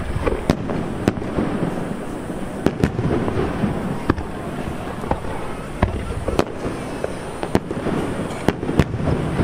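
Aerial firework shells bursting one after another, about ten sharp bangs at irregular intervals over a continuous rumble.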